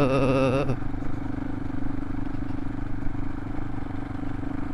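Single-cylinder adventure motorcycle engine running at a steady cruise on gravel, with tyre and wind noise. A voice is heard briefly at the start.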